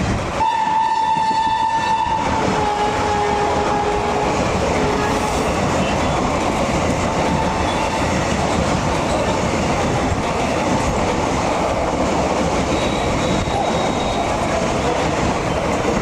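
Express train running through a station at speed, its horn sounding in the first few seconds and dropping in pitch as it passes, followed by the steady rush and clatter of the coaches.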